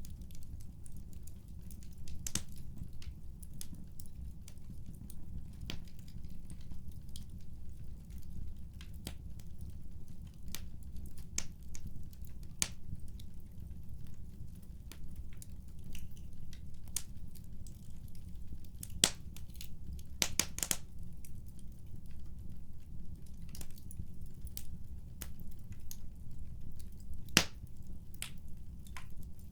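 Wood fire crackling: a steady low rumble with scattered sharp pops and snaps, a few louder ones in the second half.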